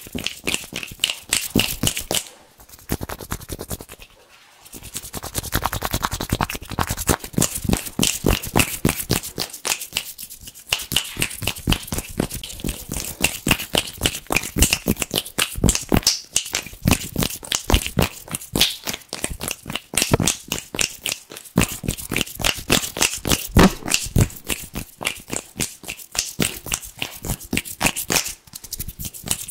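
Fast, crisp hand sounds close to the microphone: hands rubbing together in quick, crackly strokes, many a second, with two brief lulls a few seconds in.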